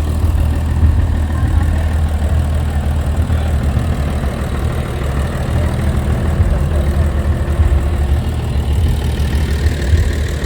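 Heavy diesel truck engine idling steadily, with a deep, even low rumble.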